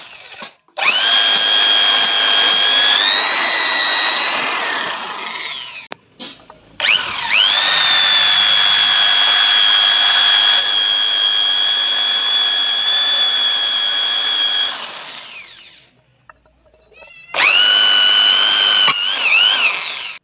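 Electric drill running in three bursts with a high motor whine, pitch rising slightly in the first. It winds down after each run, with short pauses between.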